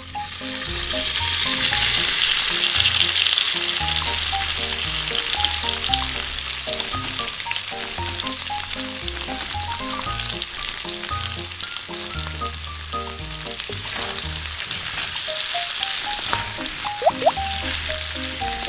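Breaded chicken pieces deep-frying in hot oil in a small metal wok: a steady sizzle that starts suddenly and is loudest in the first few seconds. Light background music with a simple melody plays under it.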